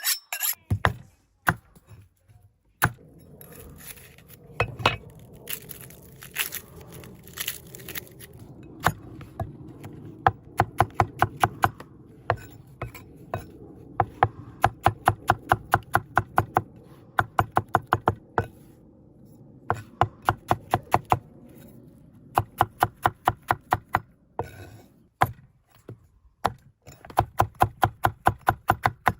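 Knife chopping food on a cutting board in quick runs of about five strokes a second, stopping briefly a few times.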